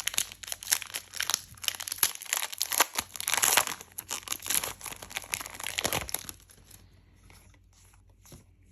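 A foil booster-pack wrapper being torn open and crinkled, a dense crackling that lasts about six and a half seconds, then thins to a few faint ticks.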